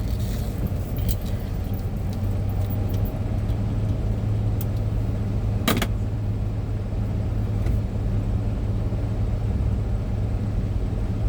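Steady low drone of a semi truck's engine and road noise heard inside the cab, with a few light clicks early on and one sharp click about six seconds in.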